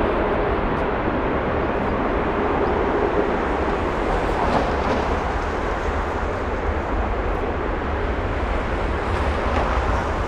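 Jet airliner engines: a steady, loud rumble with hiss, and a faint steady tone that fades out about a second in.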